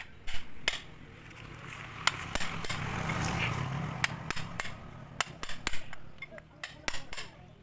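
A series of sharp knocks and clicks at irregular intervals, with a noisy swell between them a couple of seconds in.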